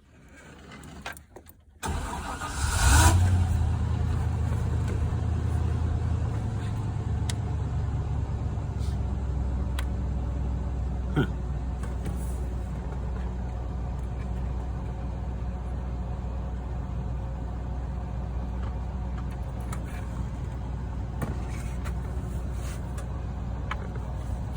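1998 Chevrolet C3500 pickup's engine starting about two seconds in with a brief rev, then settling to a steady idle.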